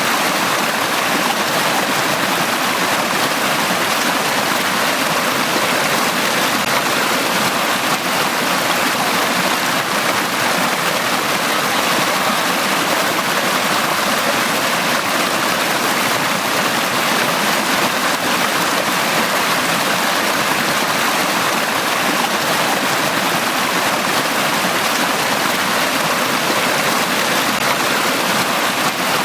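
A small stream running over rocks, a steady splashing and babbling of water.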